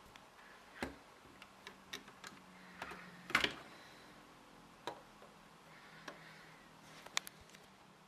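Plastic Lego parts of a brick-shooter rifle mechanism clicking as it is worked: about a dozen sharp, irregularly spaced clicks, the loudest a double click about three and a half seconds in.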